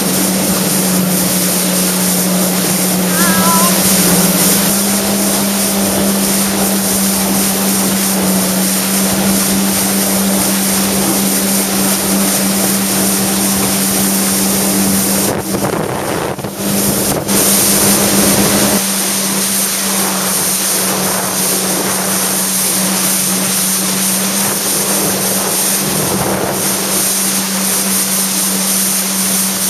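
Jet ski engine running steadily at speed, with a constant drone under the rush of wind and water over the microphone. The sound briefly dips and breaks up about halfway through.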